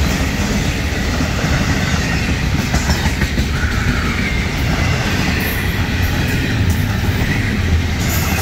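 Freight cars of a Florida East Coast Railway train, autoracks and then container-laden intermodal well cars, rolling past close by: a loud, steady rumble of steel wheels on the rails with a few clanks.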